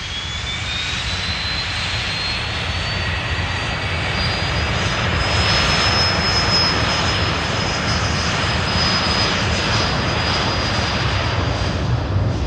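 A Learjet business jet's twin turbofan engines spooling up for the takeoff roll. A high whine rises in pitch over the first few seconds, then holds steady over a broad rushing rumble that grows gradually louder.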